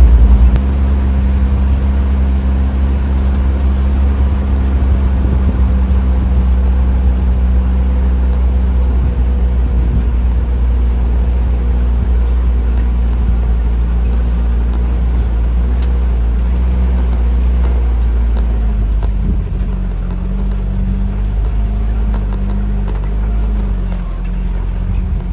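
A vehicle engine running steadily while driving, with a strong low hum throughout; the engine note shifts and drops slightly in level about nineteen seconds in.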